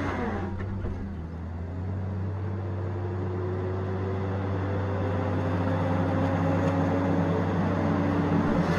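Tigercat 870C feller buncher's diesel engine running. Its pitch drops sharply at the start, then slowly climbs as it grows louder.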